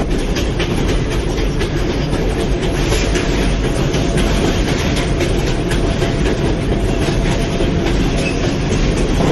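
New York City Subway J train running between stations: a steady, loud rumble with the rapid clicking of wheels over rail joints.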